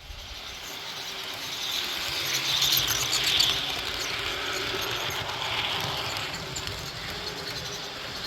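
A train rolling past on the track: a steady rush of wheels on the rails with a faint sustained ring, louder about three seconds in.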